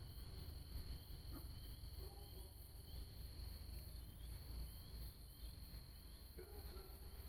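Night insects such as crickets: a steady high-pitched trill with softer chirps repeating about twice a second, over a low rumble, and a couple of faint distant calls.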